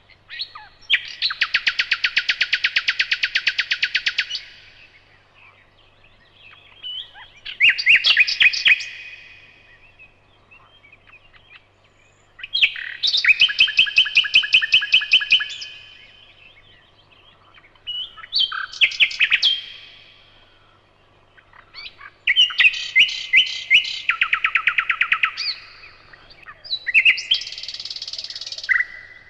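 Nightingale singing: six phrases of rapid repeated notes, each lasting one to four seconds, separated by short pauses.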